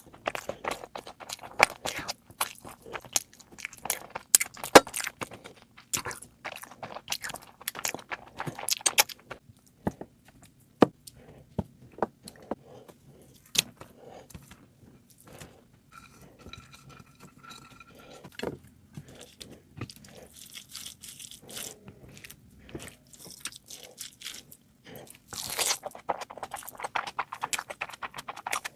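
A person eating close to the microphone: chewing and crunching food, with clicks and scrapes. The sounds come thick at first, thin out in the middle, and pick up again near the end.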